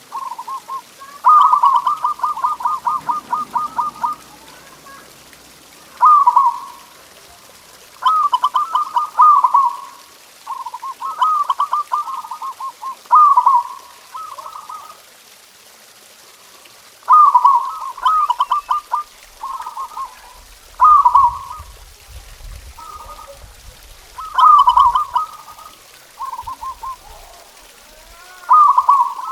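Zebra dove (perkutut) cooing: repeated bouts of quick staccato coo notes, some run together into fast rattling series, coming every second or two.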